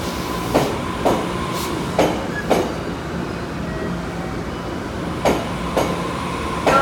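TEMU1000 Taroko tilting electric train pulling slowly out of the station, its wheels clicking over a rail joint in three pairs of clicks about half a second apart, over a steady running hum.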